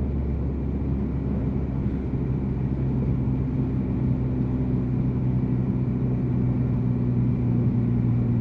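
Turbocharged Volkswagen Jetta engine running under way, its revs rising about a second and a half in, then holding steady.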